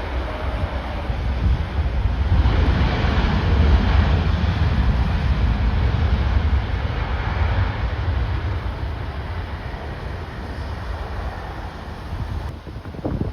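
Jet airliner passing low on landing approach: a broad engine rumble that swells over the first few seconds and slowly fades, with strong gusty wind buffeting the microphone. The sound changes abruptly near the end.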